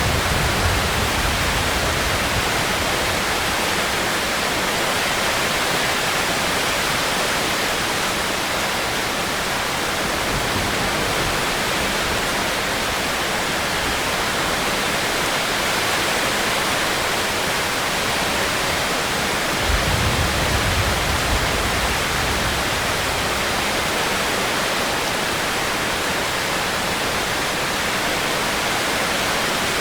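Steady rain hiss from a rainstorm, with a few brief low rumbles, the longest about two-thirds of the way through.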